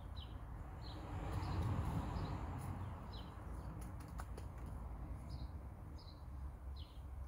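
A small bird calling repeatedly with short, high, slightly falling chirps, irregularly about once a second, over a low rumble, with a swell of rustling noise between about one and two seconds in.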